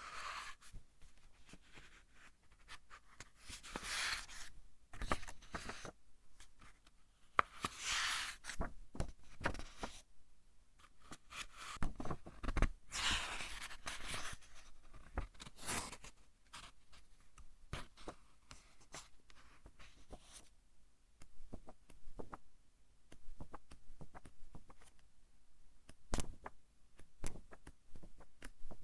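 Pages of a thick-papered book being turned by hand. Four longer papery swishes in the first half are set among many small crisp rustles and crackles of the paper.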